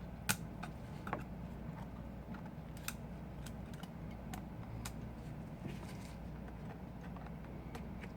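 Scattered small clicks and taps of tools and small parts during iPhone 5 disassembly, over a steady low hum.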